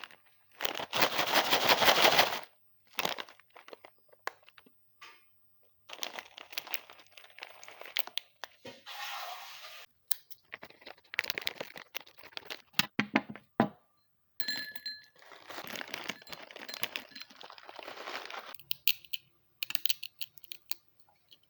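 Plastic snack packet being torn open and handled, crinkling in irregular bursts with sharp cracks. The loudest tear comes near the start and lasts about a second and a half.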